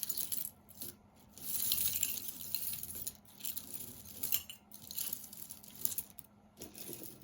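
A jumble of costume jewelry being rummaged through in a box, with metal and bead pieces clinking and rustling in several irregular bursts.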